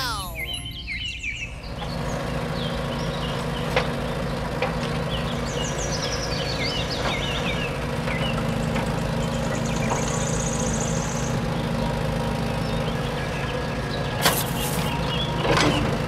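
Toy remote-control excavator's small electric motors whirring steadily as it digs and swings its arm, with birds chirping in the background during the first half and a few sharp clicks and knocks, two of them near the end.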